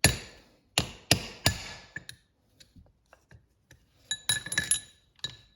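Hammer striking a steel pin punch to drive an old bushing out of a transmission planetary assembly: about five sharp blows in the first two seconds. Near the end come lighter metallic clinks with a ringing tone.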